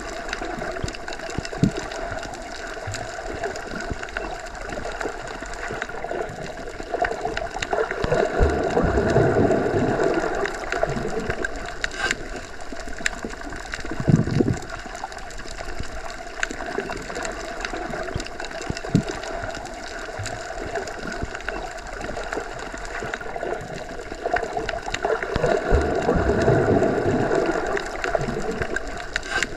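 Underwater water ambience: a continuous gurgling wash of moving water with scattered clicks. It swells louder about a third of the way in and again near the end.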